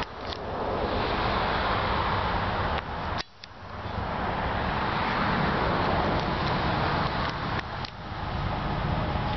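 Steady rushing rumble of an approaching diesel-hauled freight train mixed with road traffic, dipping sharply for a moment about three seconds in.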